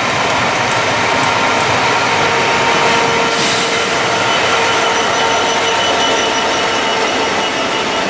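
A Class 66 diesel-electric locomotive, with its two-stroke V12 engine running, passes close at speed hauling an intermodal container freight train. Its wagons then roll past on the rails with a steady, loud rumble and a few steady whining tones over it.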